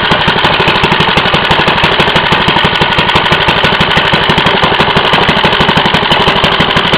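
3.5 hp Briggs & Stratton single-cylinder small engine running steadily with a rapid, even firing beat. It is running on a new carburetor fuel pickup tube that replaced a cracked one which had starved it of fuel.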